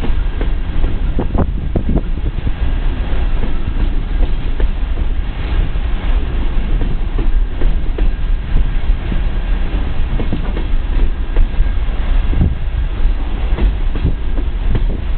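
Freight train of coal cars rolling past close by: a steady low rumble of steel wheels on rail, with irregular clicks and clunks from the wheels and cars.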